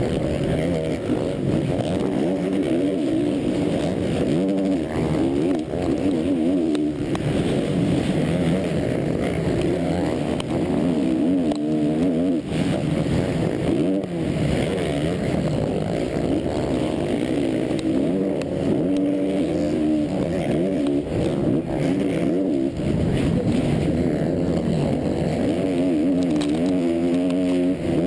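Onboard sound of a motocross race bike's engine at racing speed, the revs rising and falling over and over as the rider accelerates, shifts and backs off through the track.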